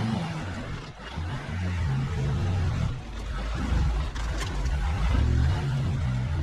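Delivery truck's engine running, its level rising and falling as the truck is driven slowly, with a short click a little past the middle.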